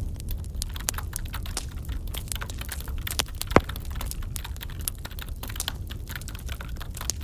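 Wood fire crackling in a fireplace: scattered small pops and clicks, with one sharper, louder pop about three and a half seconds in, over a low steady rumble.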